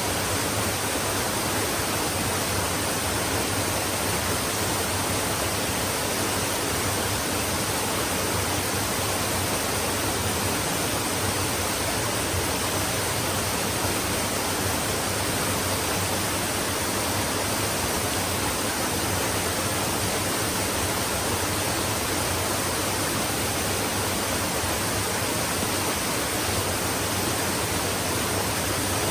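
Flowing stream: water rushing in a steady, even hiss, with no changes or separate splashes.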